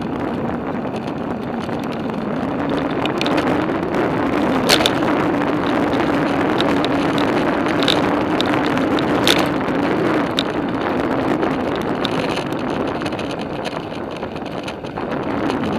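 Riding noise from a bicycle on a paved trail: steady wind on the microphone and tyre noise, with a low hum that comes in a few seconds in and fades out past the middle, and a few sharp ticks.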